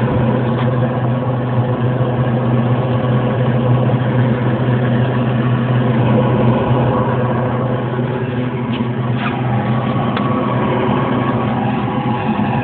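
Ardic 071-D diesel-fired engine heater running, a steady combustion rumble and hum from its exhaust pipe that holds even throughout.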